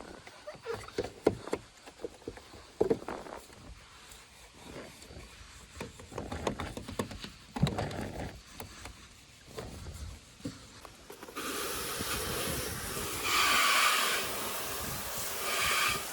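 Scattered knocks and rubbing sounds, then, from about eleven seconds in, a loud steady hiss that lasts about five seconds.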